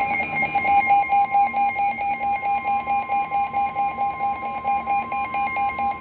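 NOAA Weather Radio alert: the steady 1050 Hz warning alarm tone sounding together with a second radio's pulsing alert beep, about three beeps a second. Both cut off at the end, which signals that a severe thunderstorm warning broadcast is about to follow.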